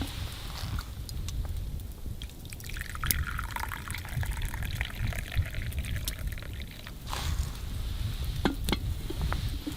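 Liquid pouring in a thin stream for about four seconds, its pitch slowly dropping, with a few sharp clicks and knocks around it over a steady low rumble.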